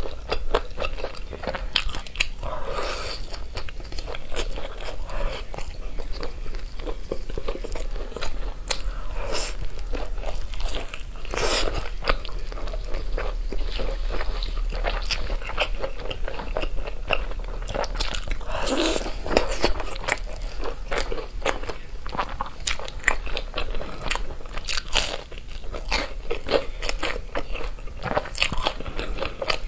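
Close-miked mouth biting and chewing crispy fried skewered food: many small crackling crunches, with a few louder bites scattered through.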